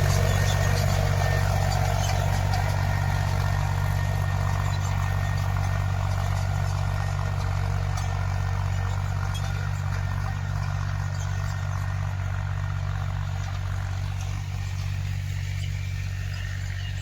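Mahindra tractor's diesel engine running steadily, with its pump freshly rebuilt. The low, even engine note grows gradually fainter.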